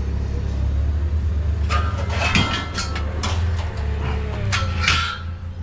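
A steady low engine hum, with clattering metal clanks and rattles about two seconds in and again near the end.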